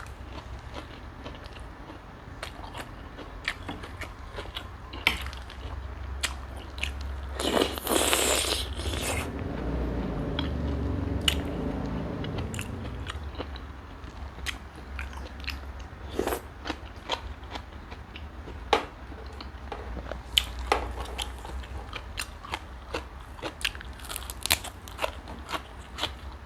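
A person eating close to the microphone: wet chewing with many sharp crunches and clicks. A louder noisy stretch lasting about a second and a half comes around eight seconds in.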